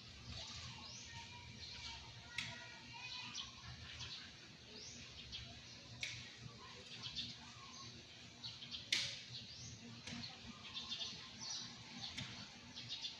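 Small birds chirping and twittering in the trees, many short calls overlapping, over a low steady background rumble, with a few sharp clicks, the loudest about nine seconds in.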